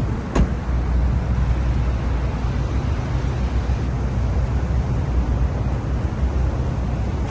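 Honda Vezel 1.5X's engine running steadily with a low, even rumble, and a single click about half a second in.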